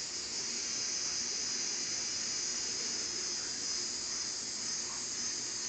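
Crickets chirping, a steady high-pitched trill with no breaks.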